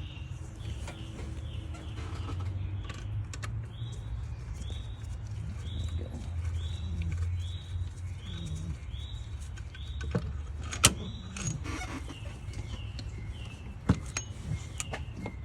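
A bird repeats a short rising call about twice a second over a steady low hum. Sharp metallic clicks of hand tools on engine parts break in, two loud ones in the second half.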